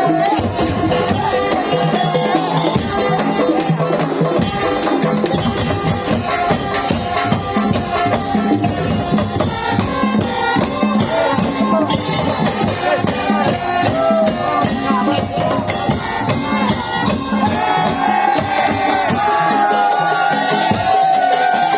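Madurese tong-tong music played by a parade band: a dense, fast rhythm of wooden slit drums and rattling percussion under a sustained, wavering melodic line.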